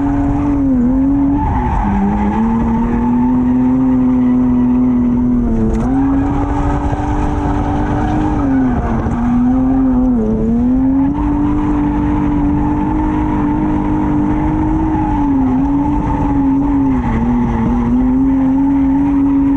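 BMW straight-six drift car held at high revs through a drift, the engine note dipping briefly and climbing back several times, with tyres squealing.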